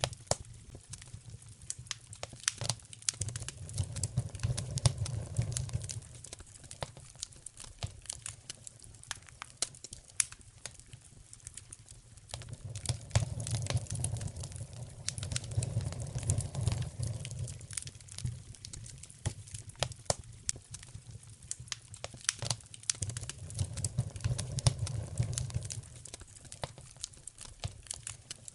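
Wood fire in a fireplace crackling, with many sharp pops and snaps. Under them a low rumble of the flames swells up three times, about ten seconds apart.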